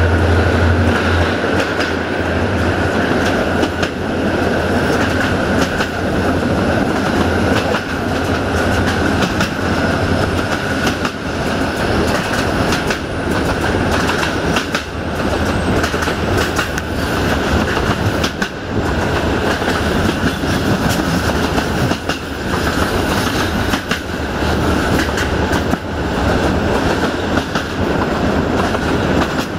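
Passenger train running at speed, its wheels clattering irregularly over rail joints (clickety-clack), with a steady high whine throughout. A heavier low drone drops about a second in as the train comes out of a tunnel.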